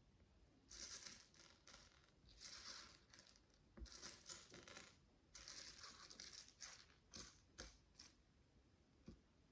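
Faint rattling and clicking of small plastic micro bricks knocking together, in a run of short bursts that ends with a few single clicks.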